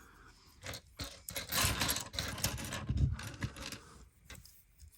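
LEGO plastic pieces being handled: a few sharp clicks, then a busy stretch of rattling and scraping as loose parts jostle together and the wheel axles are fitted on.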